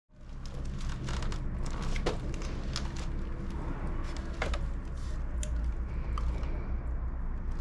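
Hand tools and small metal engine parts clicking and clinking against each other during work on a motorcycle engine's cam chest, with a steady low hum underneath.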